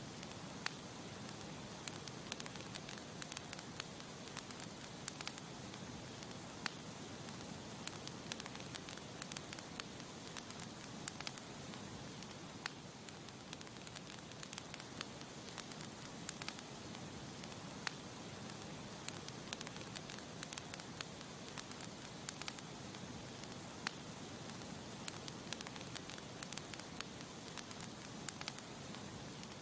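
Campfire burning with a steady hiss and irregular crackles and pops of burning wood.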